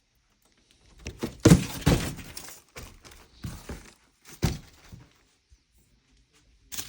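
Packing being pulled and broken apart as a boxed mini wood-burning stove is pulled out, with scraping, cracking and knocks in several irregular bursts. The loudest burst comes about a second and a half in.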